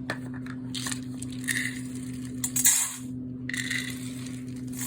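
Sunflower seeds being poured, a dry rattling hiss in three short pours, over a steady low hum.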